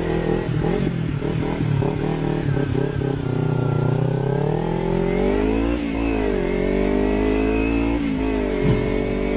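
Motorcycle engine revving under hard acceleration. Its pitch climbs, drops sharply about six seconds in, then climbs again and dips once more near the end.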